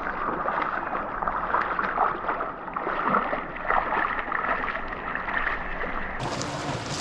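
Stream water rushing and splashing, a steady noisy flow broken by small irregular splashes.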